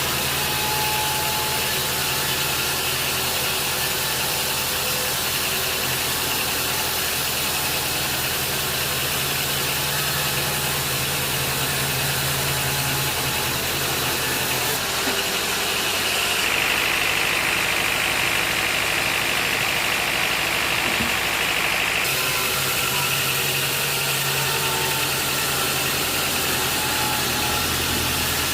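An engine running steadily at an even level. For about five seconds past the middle its tone turns brighter and harsher, then settles back.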